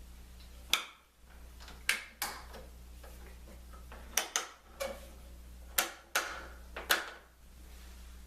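A series of about ten sharp knocks, irregularly spaced and some in quick pairs, each with a short ring, from clamps and tools being handled against the wood while a glued lamination is clamped down.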